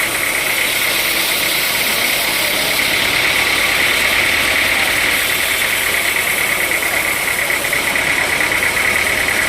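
Sawmill machinery running steadily, a loud even noise with a constant high whine that does not change.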